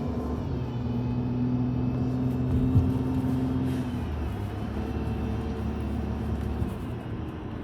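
Fire engine's diesel engine running as the truck drives off, its note dropping lower about four seconds in, with a short knock near the three-second mark.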